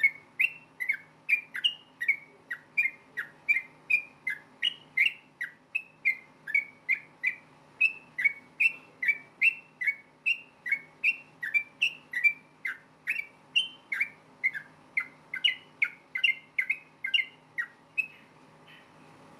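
Yellow-vented bulbul (trucukan) singing a fast series of short, clear whistled notes, about two to three a second, each sliding down or up in pitch, stopping about a second before the end.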